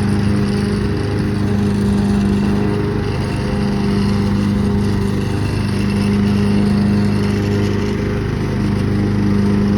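Craftsman lawn tractor's 15.5 hp overhead-valve engine running steadily, evidently while mowing a test cut after the repair.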